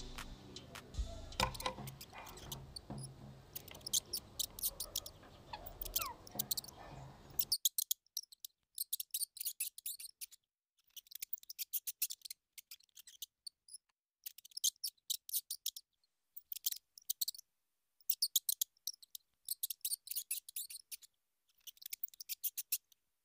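Background music fading out over the first several seconds. Then a small bird chirps in rapid, high-pitched bursts, groups of chirps about a second long separated by short silences.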